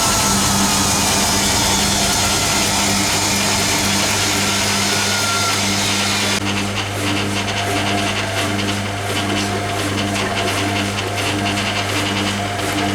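Hoover Keymatic A3112 twin-tub-era front loader draining after its third rinse: the drain pump hums steadily under the sound of water rushing out. About six seconds in the rushing stops suddenly, leaving the pump hum with a quick, even pulsing.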